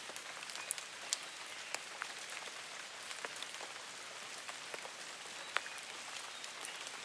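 Rain falling: a steady hiss of rain with scattered sharp ticks of individual drops landing.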